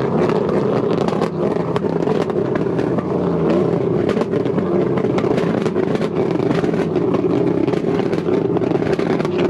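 Truck engine held at high revs during a burnout, its pitch wavering a little, with frequent sharp crackles over it.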